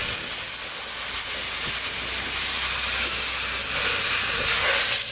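A steady hissing noise, loudest in the high range, without breaks.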